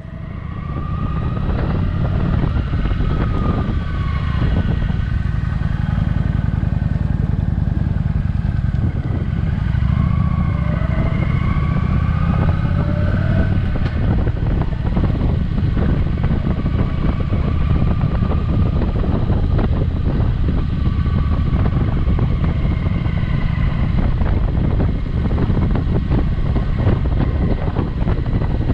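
Kawasaki Vulcan motorcycle running at road speed, a steady low engine rumble, its pitch shifting a little now and then.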